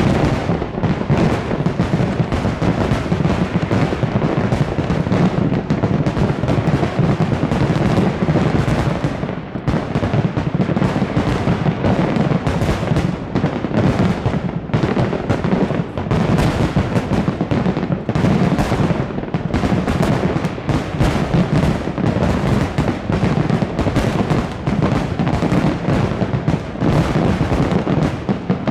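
Dense, continuous barrage of fireworks exploding: rapid overlapping bangs and crackles with no break.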